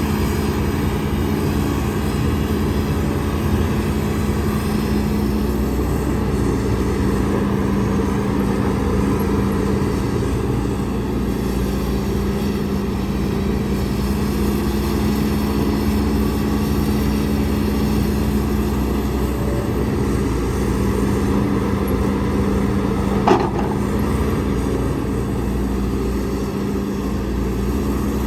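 Heavy diesel engine of earthmoving machinery running steadily, with one sharp knock a little before the end.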